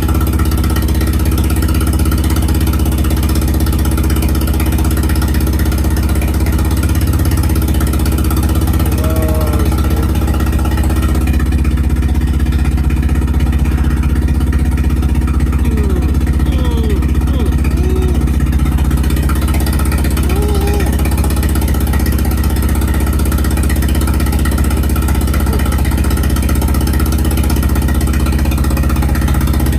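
A 1987 Nissan 200SX S12's engine idling steadily, running on a mass-airflow-sensor latency setting that is being tuned in the ECU. The higher hiss drops off about eleven seconds in while the engine's steady tone carries on.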